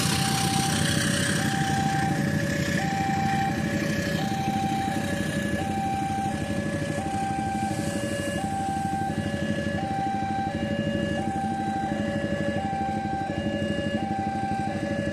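Railway level-crossing warning signal sounding, two electronic tones alternating steadily, each held about half a second. Passing traffic noise is loudest in the first few seconds, then fades.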